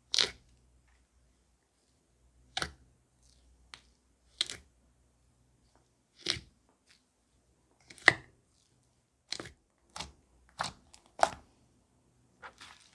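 Slime being pressed and poked by hand, giving short sharp pops and clicks about once every second or two, a little more often in the second half.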